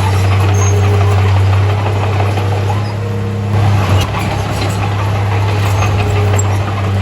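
Komatsu D31A bulldozer's diesel engine running steadily under work, a loud low drone that eases briefly about halfway through and then picks up again.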